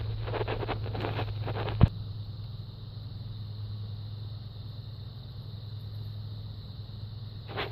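Car engine idling with a steady low hum. Over the first two seconds there is a run of rattling metallic clicks and scrapes from parts or tools being handled, ending in one sharp knock.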